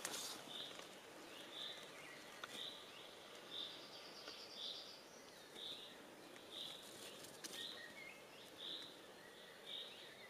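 A bird calling one short, high note over and over, about once a second, faint in the woods. A brief faint trill and other bird notes come in behind it.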